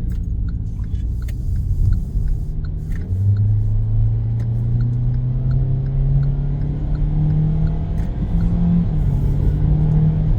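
Car engine heard from inside the cabin, its pitch climbing steadily as the car accelerates under power. A faint regular ticking about twice a second runs underneath.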